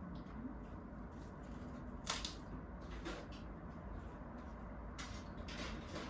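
Steady low room hum with a few brief sharp handling noises, the loudest about two seconds in.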